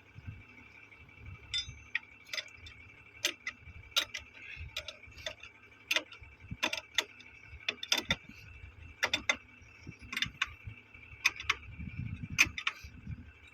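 Irregular sharp metallic clicks and clinks of hand tools and hardware being worked during the fitting of a railway point machine, over a steady high-pitched hum.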